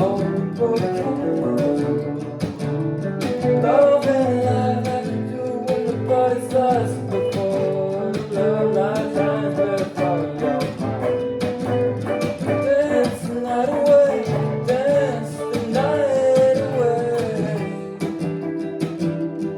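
Song music: acoustic guitar strumming chords, with a wavering melody line carried over it for most of the stretch.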